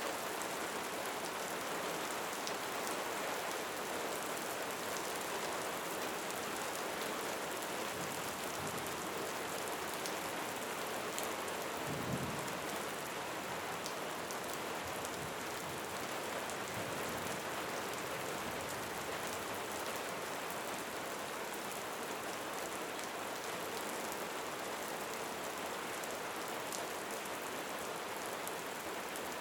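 Steady rain falling, a dense even patter of drops, with one brief low rumble about twelve seconds in.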